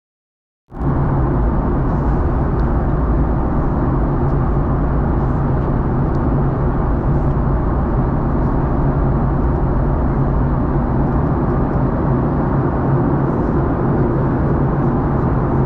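Steady cabin noise inside a Boeing 737-800 in flight: the low drone of its CFM56 jet engines mixed with airflow over the fuselage, with a steady low hum underneath. It cuts in suddenly from silence about a second in.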